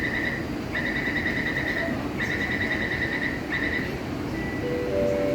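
Metro door-closing warning buzzer: a high, rapidly pulsing beep sounding in four bursts of about a second each, the last one short, over steady train and station rumble. Near the end a steady low hum of several tones starts up.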